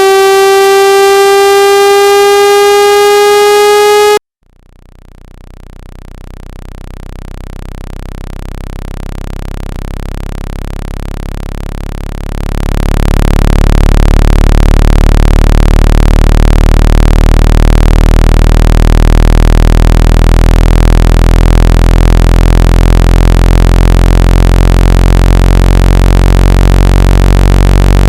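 Synthesized water-ejection tones for driving water out of a phone speaker. A loud pitched tone with many overtones rises slowly in pitch and cuts off about four seconds in. After a short gap, a low buzzing tone fades in, jumps louder about twelve seconds in, and holds steady.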